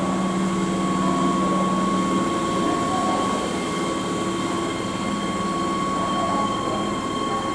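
Keihan electric commuter train at the station platform, a steady rumble with a constant high whine.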